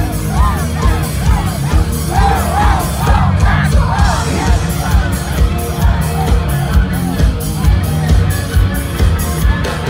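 Rock band playing live, loud and full with steady drum hits; a lead line of repeated bending notes rises and falls over the first few seconds, with crowd yelling and whooping mixed in.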